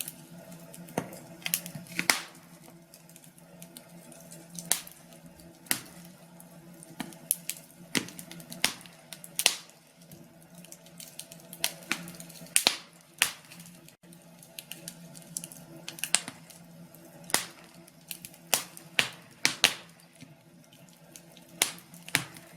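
Wood fire crackling in a fireplace: irregular sharp pops and snaps, a few each second, over a faint steady low hum.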